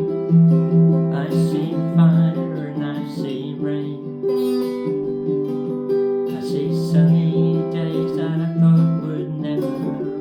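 Steel-strung baritone ukulele (a Flight Maia) being played, chords ringing on with a fresh strike about every two seconds and picked notes between.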